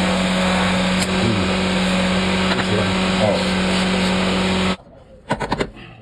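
A workshop machine runs steadily with a loud hum and hiss, then shuts off suddenly about three-quarters of the way through. A quick run of sharp strikes on metal follows.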